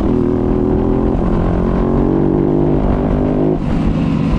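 Dirt bike engine running under throttle on a trail, its pitch held fairly steady and then dropping about three and a half seconds in, picked up by a GoPro's built-in microphone.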